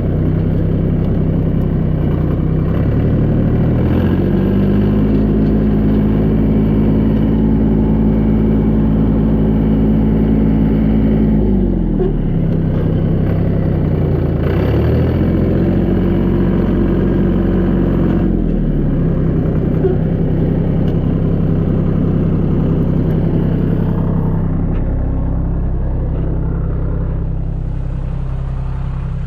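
Tractor engine running, revved up about three seconds in and held for some eight seconds before dropping back, then revved again for a few seconds in the middle before settling.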